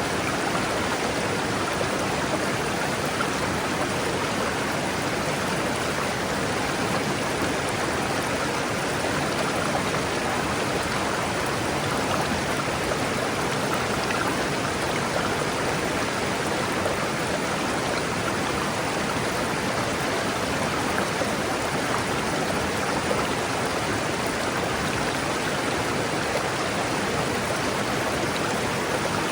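River water rushing and babbling over rocks, a steady even wash with no change in level.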